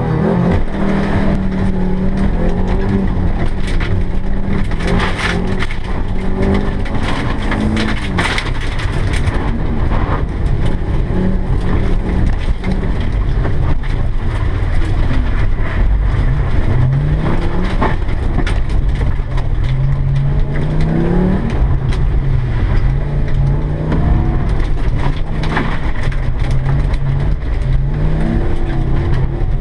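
Audi rally car's engine, heard from inside the cabin, revving hard and rising and falling in pitch through gear changes. It pulls away near the start. A run of sharp clatters comes between about four and nine seconds in.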